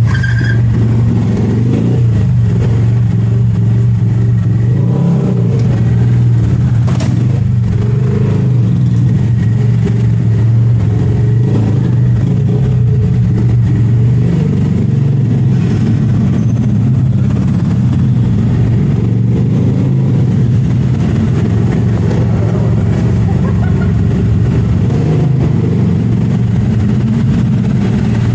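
Motorcycle engine running steadily, its pitch shifting only slightly, with one sharp click about seven seconds in.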